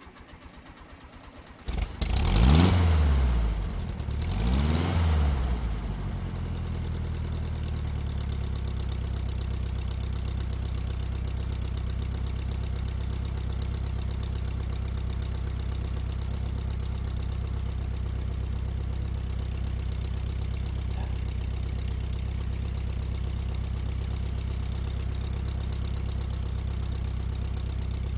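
An air-cooled VW flat-four engine cranks briefly and catches. It revs up and back down twice, then settles into a steady idle.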